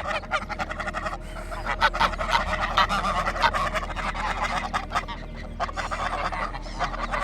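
A flock of waterfowl calling, with many calls overlapping in a dense, continuous chatter.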